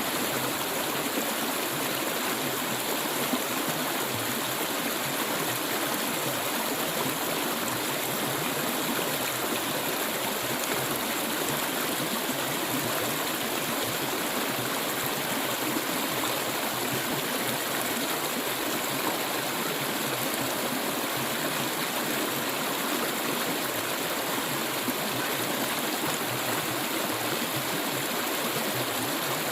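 Clear stream water flowing steadily, a continuous rushing burble with no breaks.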